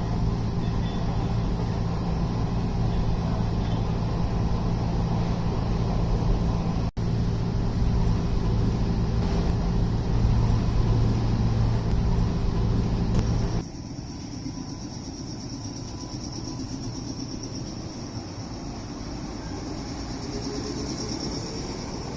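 Steady rumble and hum of a vehicle in motion, heard from inside. About two-thirds of the way through it cuts off suddenly, giving way to quieter ambience with a steady high-pitched buzz.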